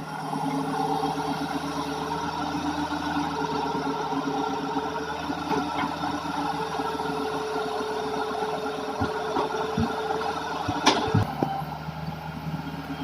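Hitachi excavator's diesel engine running steadily as the machine works, with one sharp knock near the end.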